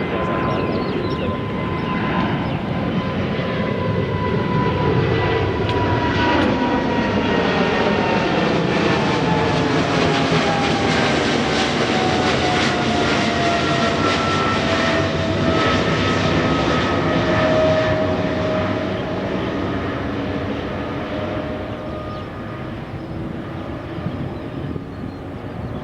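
Airliner taking off, its engines at full power: a loud rush with whining tones that slowly fall in pitch as it passes, swelling to a peak in the middle and fading near the end.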